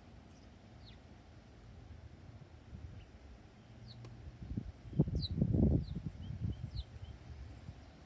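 Backyard songbirds giving scattered short, high chirps that drop in pitch, a few softer lower notes among them. A low rumble swells briefly about five seconds in and is the loudest thing heard.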